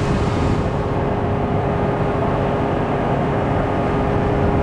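A motor engine running steadily, with a constant whine over a low hum.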